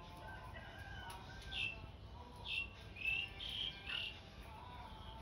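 Birds calling: a run of short, high chirps from about a second and a half in until about four seconds, over fainter, longer calls in the first second or so.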